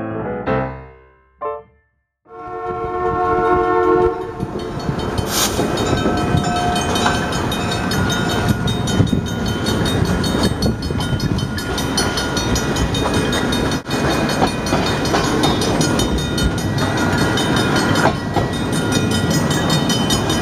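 Train horn sounding for about two seconds, followed by a train passing steadily with the noise of its wheels on the rails.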